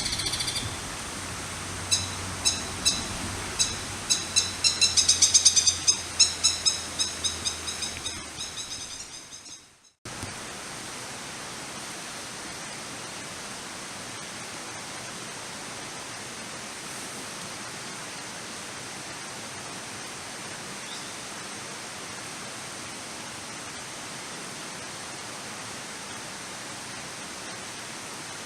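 Crested kingfisher giving a series of sharp, harsh calls that speed up and then fade away over the first nine seconds. After an abrupt cut, steady rushing water fills the rest.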